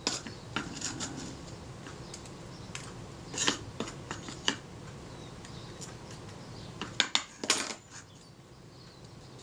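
Light metallic clicks and clinks of small tools and camera shutter parts being handled, as graphite powder is worked into the shutter's diaphragm mechanism. The louder taps come about a third of the way in and again near three quarters.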